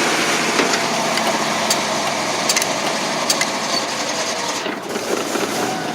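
1988 GMC 6000 box truck's 454 big-block V8 petrol engine running steadily at high idle, shortly after a cold start, with a few light ticks over it.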